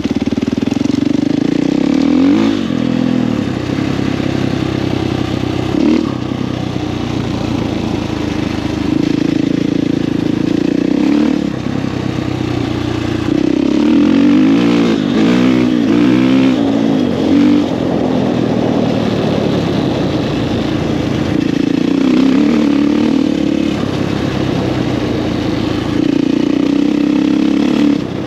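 Husqvarna FE450 single-cylinder four-stroke dirt bike with an FMF 4.1 exhaust being ridden: the engine holds steady revs in stretches and is repeatedly throttled on and off, with a run of quick revs rising and falling about halfway through.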